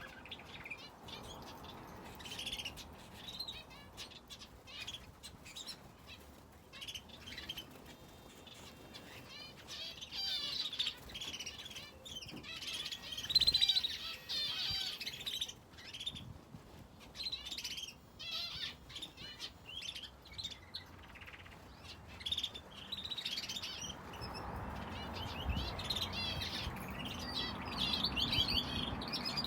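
Aviary finches and a canary chirping and trilling in overlapping bursts, busiest around the middle and again in the last few seconds, with scattered light clicks among them.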